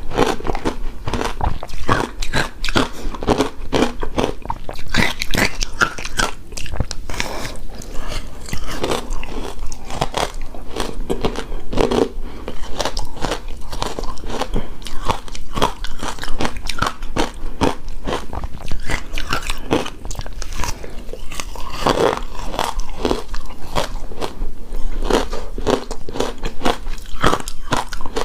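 Close-miked chewing and crunching of shaved ice dessert: a continuous run of crisp, icy crunches between bites.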